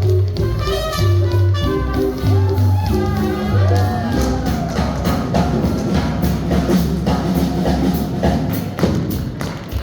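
Swing jazz band playing, with tap shoes striking the floor in quick rhythmic strokes that come to the fore over the second half.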